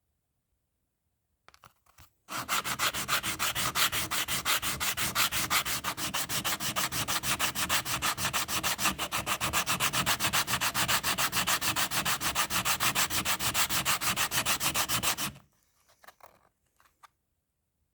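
Bicycle brake pad being sanded by hand on sandpaper to clean its surface: a loud, even scraping in rapid back-and-forth strokes, several a second, that starts about two seconds in and stops abruptly a couple of seconds before the end, followed by a few faint knocks.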